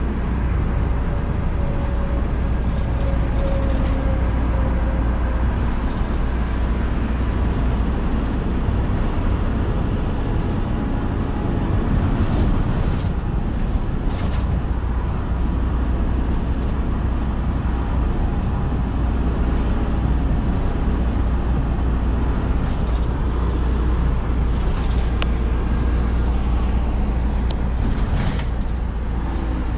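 City bus driving along: a steady low engine and road rumble that stays even, with a faint brief whine a few seconds in.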